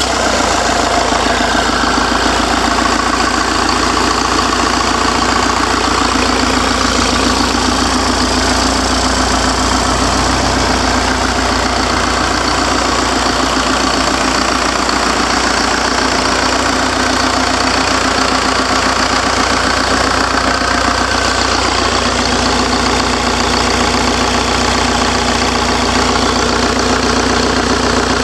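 Cummins 4BT four-cylinder turbodiesel engine running at a steady idle.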